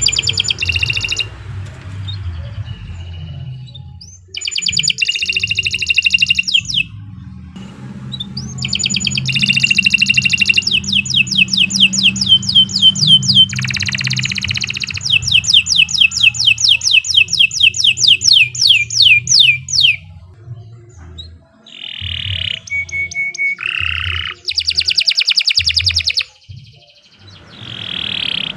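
Domestic canary singing a long, fast song: high rolled phrases and long runs of rapidly repeated notes, in several bursts with short pauses between them. The longest run lasts about ten seconds, in the middle.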